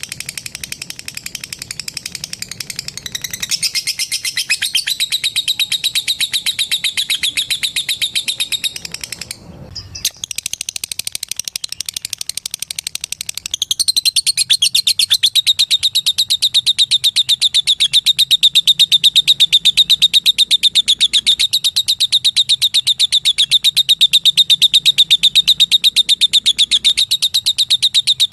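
Lovebird chattering a long, very fast trill of high, ticking notes (the 'ngekek'). It breaks off briefly about a third of the way in, then resumes and grows louder from about halfway.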